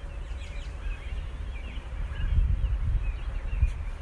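Small birds chirping and calling over a low, gusty rumble of wind on the microphone, the rumble growing louder about halfway through.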